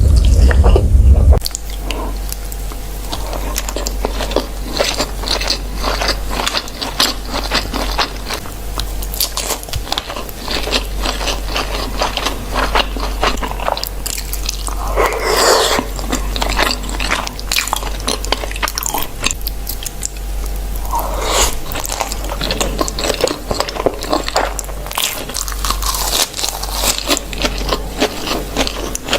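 Close-miked eating of spicy baby squid: steady chewing and biting with many small wet mouth clicks and crackles. The first second or so is louder and heavier in the bass.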